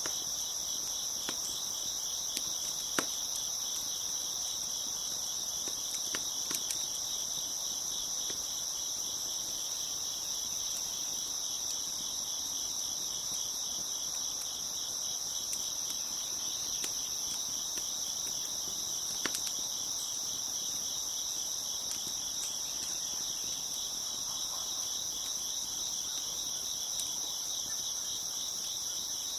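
A dense, steady chorus of crickets chirping, high-pitched and continuous, with a few sharp pops from a crackling wood fire scattered through it.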